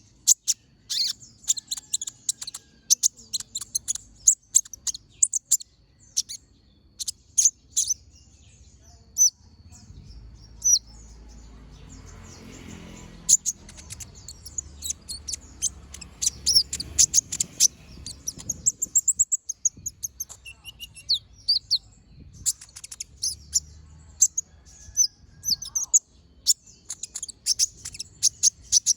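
Kolibri ninja (konin) sunbird singing a fast run of sharp, high, piercing chirps and trills. The notes thin out briefly near the middle under a faint low background hum, then come thick again.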